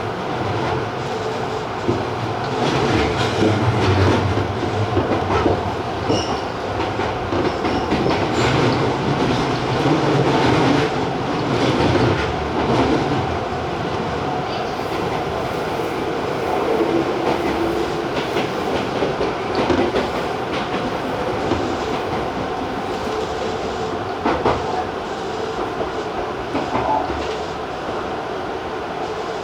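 Tobu 50090-series electric train rolling with a rhythmic clickety-clack of wheels over rail joints and points, with some wheel squeal, as it brakes to a stop at a station. The running noise eases slightly in the second half.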